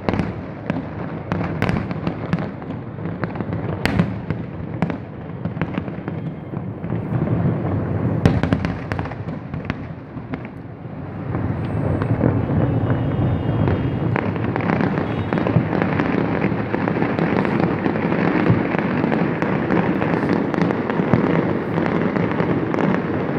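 Aerial fireworks shells bursting: many sharp bangs, some spaced and some in quick clusters, through the first half. From about halfway on, a louder, denser and steadier din with scattered bangs takes over.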